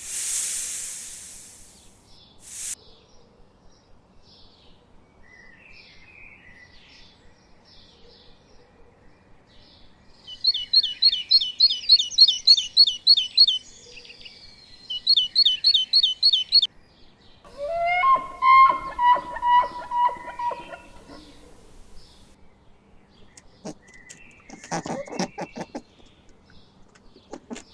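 Bird song: two bouts of fast, high trilled notes repeated several times a second, then a run of lower chattering calls and a short rattle. A brief rushing noise comes at the very start.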